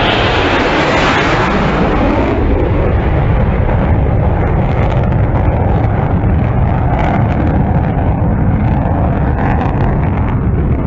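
Low-flying jet aircraft passing: a loud roar, brightest in the first couple of seconds, then settling into a lower, steady rumble with wind buffeting on the microphone.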